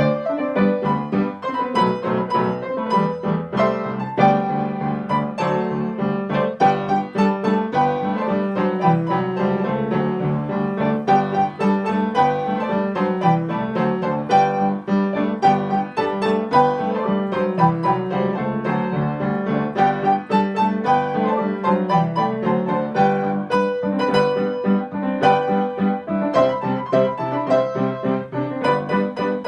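Piano being played without a break: a steady stream of notes, with a lower line under a higher melody.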